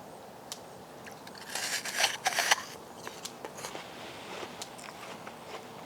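Biting into a crisp fresh apple: a loud crunch about a second and a half in, then chewing with small crackly clicks.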